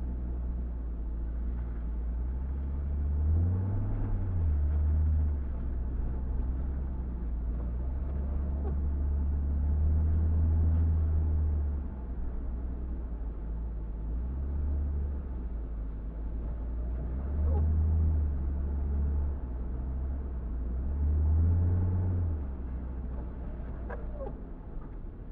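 A car driving, heard as a deep, steady rumble of engine and road noise that swells and eases several times as the car speeds up and slows.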